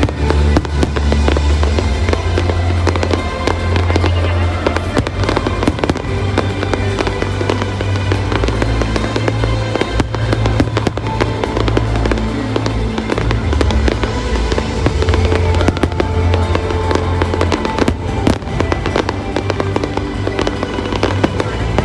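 Fireworks display going off without a break: a dense, rapid stream of bangs and crackling shells. Underneath is music with held bass notes that change every few seconds.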